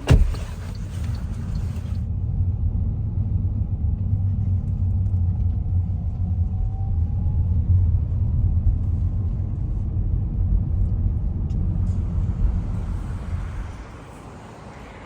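Steady low rumble of a moving vehicle, dropping away about a second before the end.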